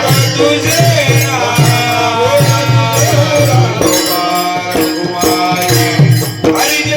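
Varkari bhajan: a male voice sings a traditional devotional melody with pakhawaj (mridang) drum strokes and jingling hand cymbals keeping the rhythm.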